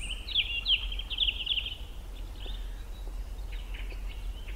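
Songbirds chirping in quick, repeated trills, loudest in the first second and a half and fainter after, over a steady low rumble.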